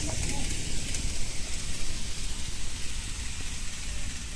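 Model freight train running along layout track, a steady rattling rumble of small wheels and motor with a hiss over it.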